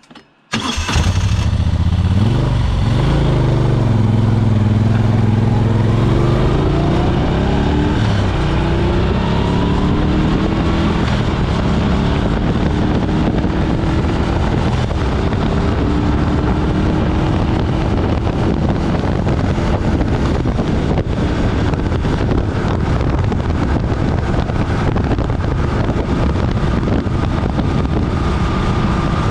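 Moto Guzzi Norge's V-twin engine starting suddenly about half a second in and revving, then pulling away and accelerating through several gears, each shift heard as a new rising note, before settling into steady cruising with wind noise.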